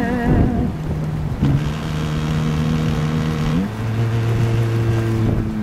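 Oldies music from a car radio: long held notes that step to a new pitch every second or two, over steady wind and surf noise.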